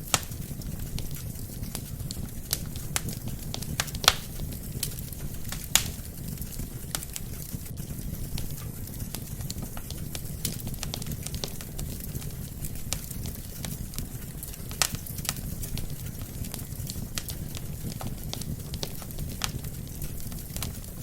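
Wood fire burning in a fireplace: a steady low rumble of flames under scattered sharp crackles and pops of burning logs, a few of them much louder.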